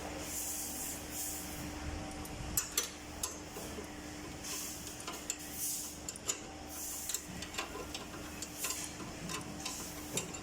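Irregular light metallic clicks and clinks of hand tools and parts being handled in workshop work, over a steady low hum.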